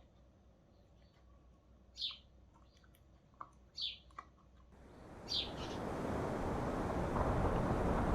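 Short, sharp bird calls repeated about every two seconds, four in all. From about five seconds in, a rising rush of wind and surf builds up beneath them.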